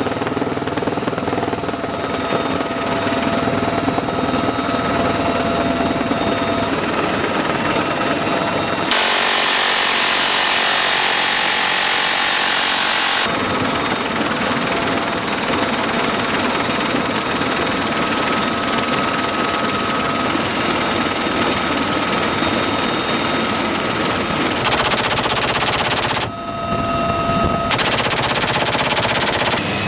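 Sustained machine-gun fire from UH-1Y Venom helicopter gunships, mixed with helicopter noise. The sound changes abruptly several times, with a brighter, hissier stretch a third of the way through.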